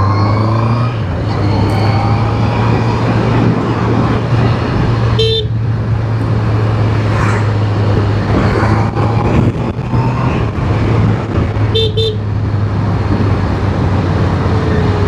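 Honda CBR650R inline-four engine running under way, rising in pitch at the start, with wind rushing over the microphone. Two short horn beeps sound about five and twelve seconds in.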